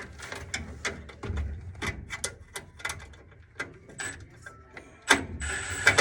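Irregular clicks and metallic rattling of a tool working the mounting screw out of a furnace flame sensor, with a louder burst of clattering about five seconds in.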